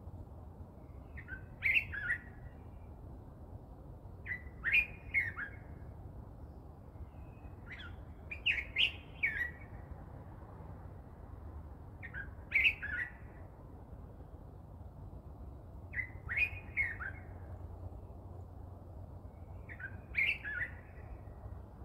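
A bird singing a short phrase of quick chirps, each with falling notes, repeated about every four seconds, over a steady low rumble.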